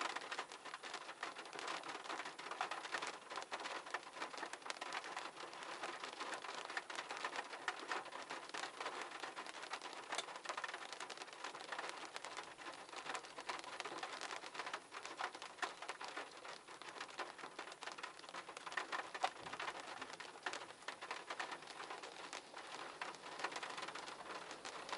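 A steady, dense patter of many small ticks.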